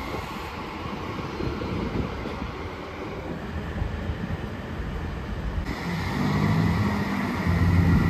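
Electric Elizabeth line train rumbling along the platform. From about six seconds in, the diesel engine of a Class 165 Turbo unit throbs, getting louder as it approaches.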